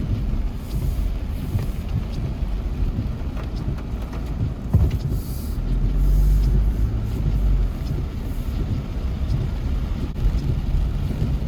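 A car driving, heard from inside the cabin: a steady low rumble of engine and tyres, with short hissing swells now and then. The rumble grows louder for a couple of seconds about halfway through.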